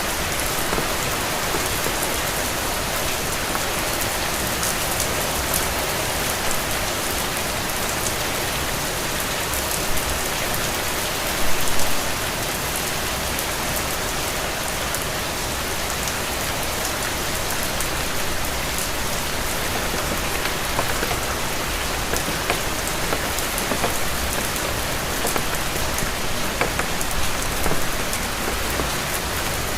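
Steady rain falling: an even hiss with scattered sharp ticks of individual drops, and a brief louder spatter about twelve seconds in.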